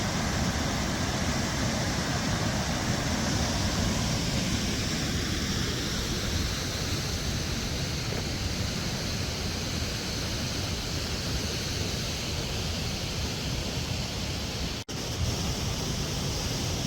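Kawishiwi Falls: the steady rush of a waterfall, with a momentary break about fifteen seconds in.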